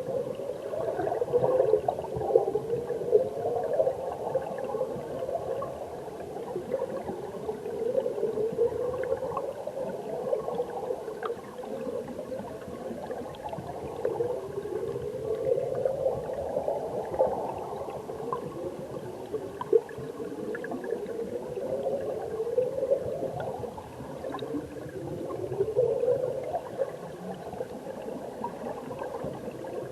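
Mountain stream heard underwater: a steady gurgling rush of moving water and bubbles, swelling and rising in pitch every couple of seconds, with faint scattered ticks.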